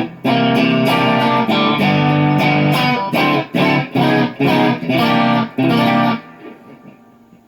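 Guitar playing the instrumental tail of a slow blues: a run of picked notes, then short choppy chords. These stop about six seconds in and ring away to a low hush.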